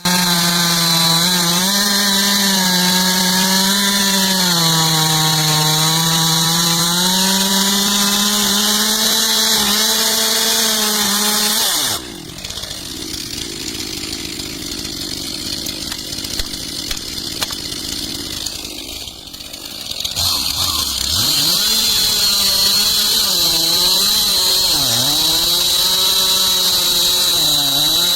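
Chainsaw running at full throttle and cutting into wood, its pitch sagging and recovering under load. About twelve seconds in, the sound breaks off abruptly into a quieter, rougher stretch. From about twenty seconds a chainsaw is heard again, its engine dipping and rising as it cuts.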